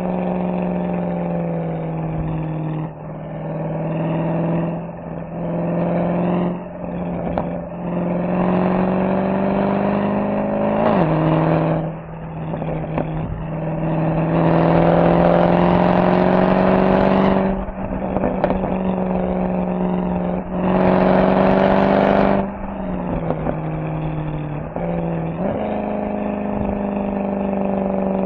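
Mercedes-AMG SL63's V8 exhaust under way, the revs rising and falling through a run of gear changes and throttle lifts. It gets louder in two stretches of harder acceleration, about halfway through and again a few seconds later.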